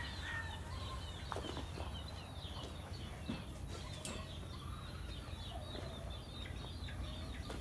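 Chickens clucking, with many short high chirping calls scattered throughout, over a steady low hum.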